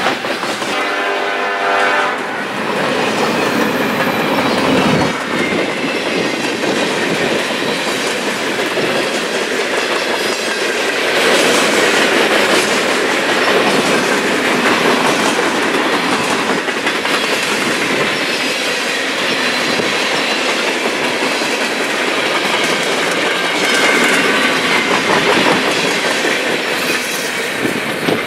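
Freight cars of a passing diesel-hauled train rolling by at speed: a steady loud rumble and clatter of steel wheels on the rails. In the first couple of seconds a droning tone from the locomotives just past fades away.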